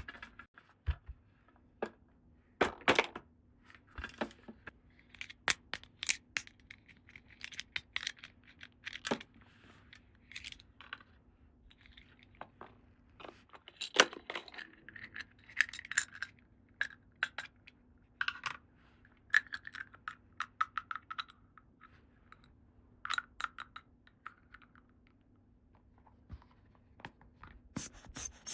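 Small plastic toy playset pieces being handled by hand: scattered clicks, taps and light clinks as parts are picked up and set down, with brief rustles of packaging.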